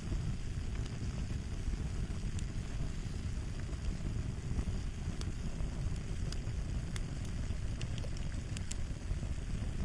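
Crackling fire: a steady low rumble of flames with irregular sharp pops and snaps, a few coming close together near the end.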